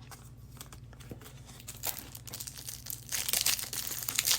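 Crinkling and rustling of a plastic football-card pack wrapper being handled, faint and sparse at first and louder and busier from about three seconds in.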